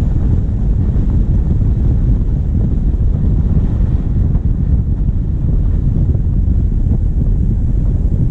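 Wind buffeting a bonnet-mounted GoPro's microphone over the steady low rumble of a diesel vehicle driving.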